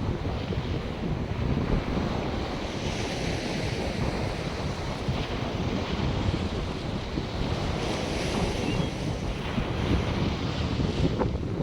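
North Sea surf breaking and washing onto the beach, the hiss swelling as waves come in, with wind buffeting the microphone.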